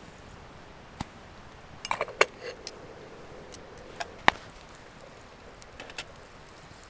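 A handful of sharp clinks and knocks of camp cookware and utensils, a few of them ringing briefly. They cluster about two seconds in, and the loudest knock comes a little after four seconds.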